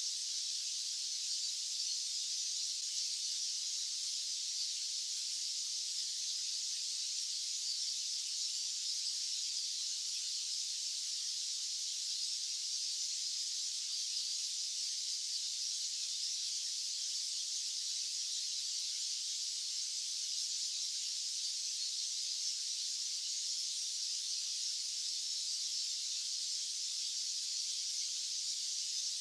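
White noise played as a sleep or relaxation track: a steady, unchanging high-pitched hiss with no low rumble.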